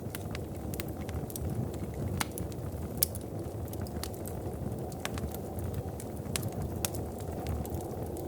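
Wood fire crackling in a fireplace: frequent sharp pops and snaps, the loudest about three seconds in, over a steady low rumble.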